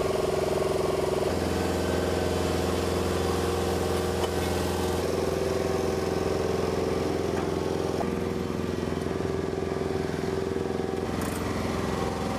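An engine running steadily, its hum shifting abruptly to a different pitch mix several times.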